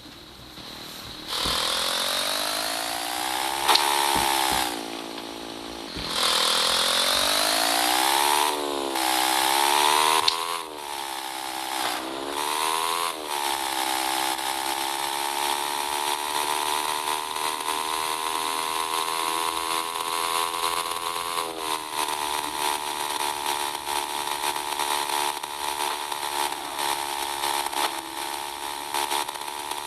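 Small motorcycle engine starting up and being revved several times, its pitch rising and falling, then held at a steady raised speed with a slight drop about two-thirds of the way through.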